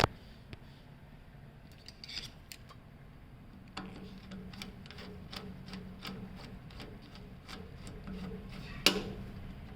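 Irregular small clicks and light clatter of tools and parts being handled, with one sharper click near the end, over a low steady hum that comes in about four seconds in.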